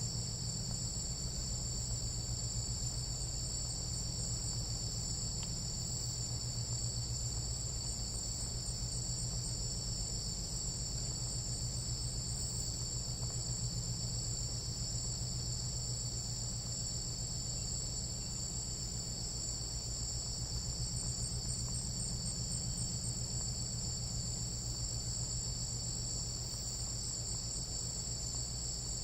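Tropical night insect chorus in Panamanian rainforest: a steady, unbroken high-pitched trilling in several layered pitches, over a low pulsing hum.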